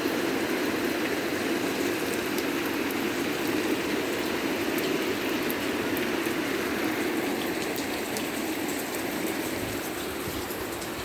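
Heavy, steady downpour of torrential rain, a dense even hiss of water falling, easing slightly near the end.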